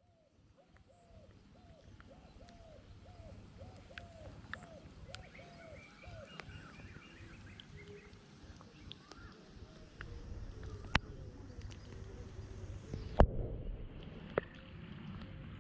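Riverside birds calling: one bird repeats about a dozen short hooting notes, about two a second, over the first six seconds, with higher chirps from other birds. A low rumble of water and wind runs underneath. A loud knock comes near the end, then the sound turns duller as water washes over the waterproof action camera.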